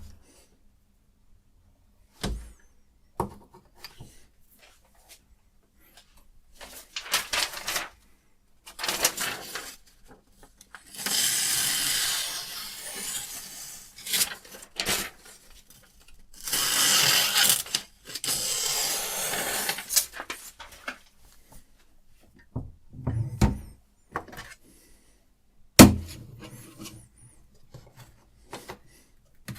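A sharpening stone on a Hapstone RS guided knife sharpener scraping along a steel knife edge in several long strokes, each a second or more, with short gaps between them. There are a few sharp knocks from the sharpener being handled, the loudest about 26 seconds in.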